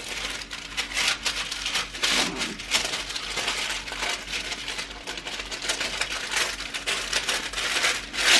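Kitchen utensil scraping and clicking irregularly against a metal baking tin as cookie dough is pressed and spread into it, with a faint steady hum underneath.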